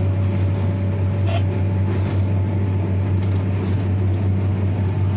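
Train running over a steel truss bridge: a steady low drone of the train's engine and running gear, with rail and wheel noise.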